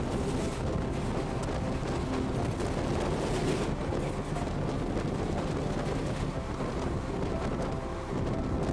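Steady running noise of a passenger train heard from on board, with wind buffeting the microphone.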